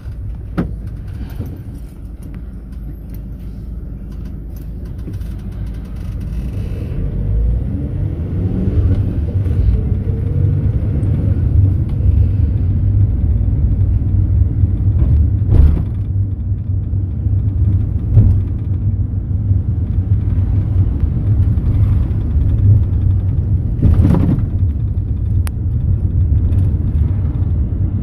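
Cabin rumble of a Mercedes-Benz Sprinter minibus driving off: the engine note rises and the rumble grows louder as it picks up speed about a third of the way in, then a steady road rumble with a few sharp knocks and rattles from bumps.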